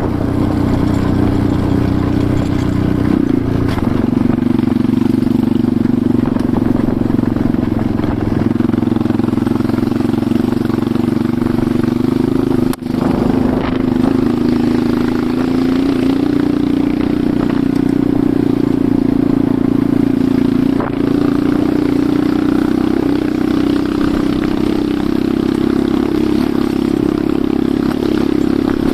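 Enduro motorcycle engine running at a steady, even pitch while riding along a forest track, with one brief dropout about halfway through.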